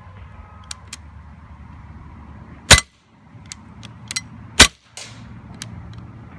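Two shots from a CO2-powered Umarex Walther P99 DAO airsoft pistol, about two seconds apart, with fainter clicks before and between them.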